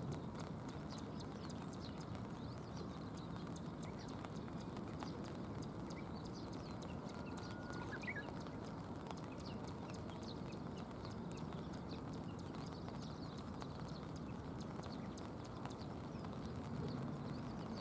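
Steady outdoor hiss of rain falling on a river, with scattered faint high chirps and a couple of short whistled notes about halfway through.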